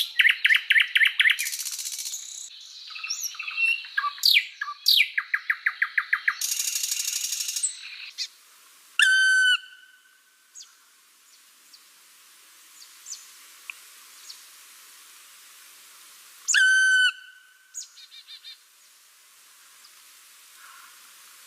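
Songbird singing: a fast, varied run of trills, buzzy rattles and quick whistled glides for the first eight seconds, then mostly quiet with two short, full-sounding calls about seven seconds apart and a few faint chirps.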